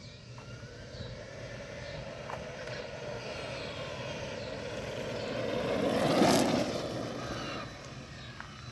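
A car drives past: its noise builds to a peak about six seconds in and then fades, with a pitch that drops as it goes by.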